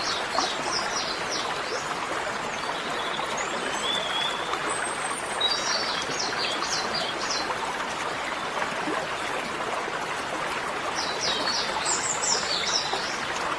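Steady rush of running water with birds chirping in several short bursts and a few brief whistled glides.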